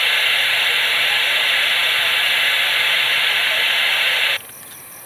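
A loud, steady hiss that cuts off suddenly near the end.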